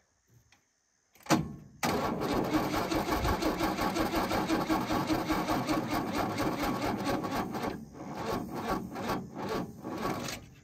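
1976 HX Holden ute's engine cranked over by its starter without firing: a click, then about six seconds of steady, rhythmic cranking that slows into separate turns and stops. With spark and fuel present, the failure to catch points to ignition timing that is out, which later proves to be a loose distributor.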